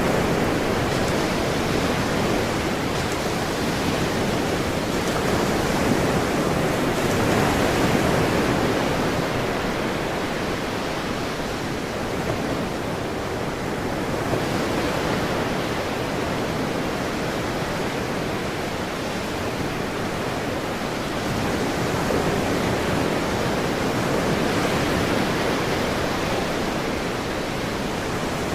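Ocean waves washing ashore: a continuous rushing surf that swells and eases slowly over several seconds.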